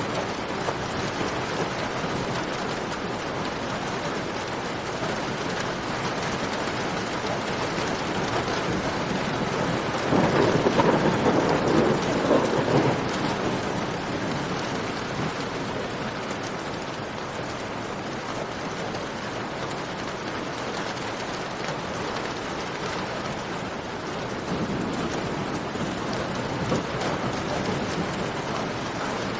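Steady rain falling and dripping in a cave, with a louder rumbling swell for about three seconds, starting about ten seconds in.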